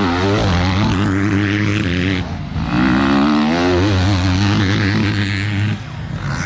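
Motocross dirt bike engines revving hard as the bikes race, their pitch rising and falling repeatedly with throttle and gear changes.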